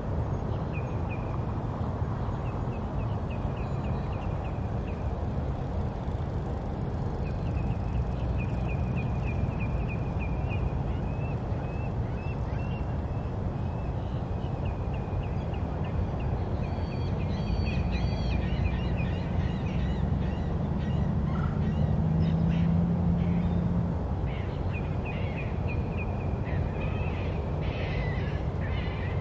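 Birds calling in long runs of quick, repeated chirps over a steady low background rumble, with a burst of louder calls a little past halfway. A low hum swells for several seconds in the second half.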